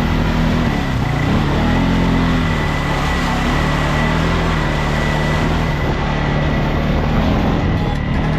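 A 4x4's engine revving up and down during the first few seconds as it works through mud, then holding steadier, over a steady rush of tyre and road noise.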